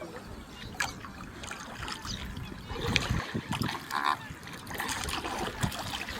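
Water splashing and trickling around a small boat on a lake, with scattered knocks and splashes. About four seconds in, a short honking bird call.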